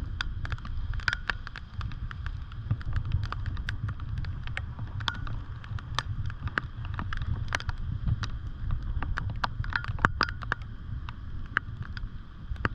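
Raindrops tapping on a waterproof GoPro housing as many sharp, irregular clicks, over a steady low wind rumble on the microphone.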